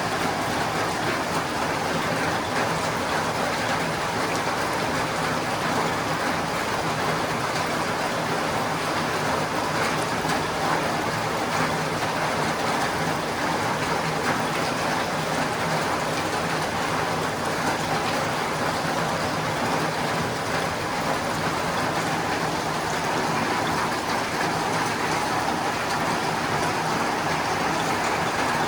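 Rain falling steadily on a tin roof: a continuous, even patter with no breaks.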